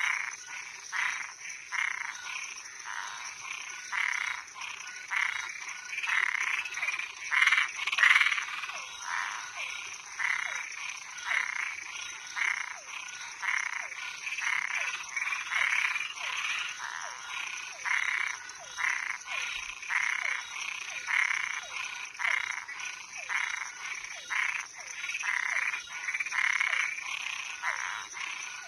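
A night chorus of frogs and treefrogs: many short calls repeated one or two a second and overlapping one another, over a steady high-pitched drone.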